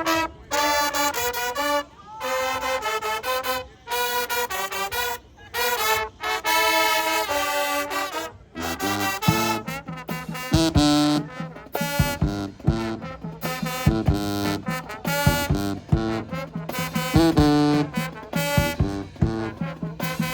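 High school marching band brass playing loud phrases separated by brief pauses. About eight seconds in, drums and low brass come in and the full band plays on with a steady beat.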